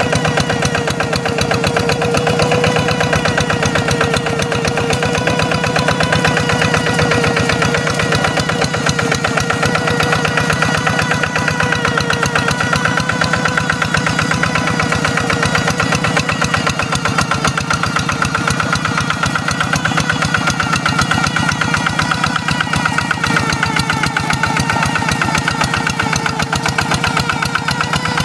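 Hand tractor's single-cylinder diesel engine running steadily with a rapid, even firing beat, its pitch wavering slightly as it works under load.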